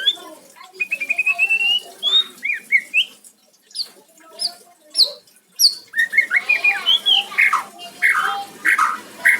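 White-rumped shama (murai batu) singing a varied song: a rapid trill rising in pitch, then several sharp whistles sliding downward, then a dense run of mixed chirps and whistled phrases.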